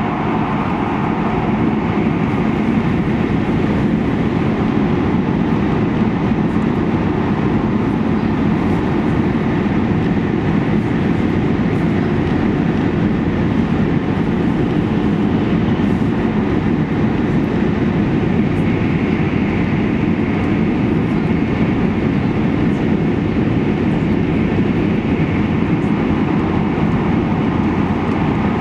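Steady running noise of an E2 series Shinkansen heard inside the passenger cabin: an even low rumble with a rushing hiss over it. The hiss grows a little stronger about two-thirds of the way through.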